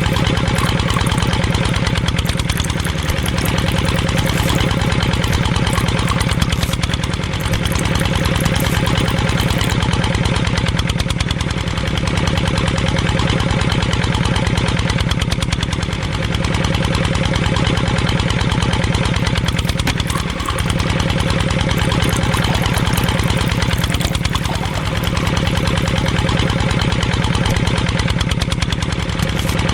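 Small engine running steadily at a fast, even beat.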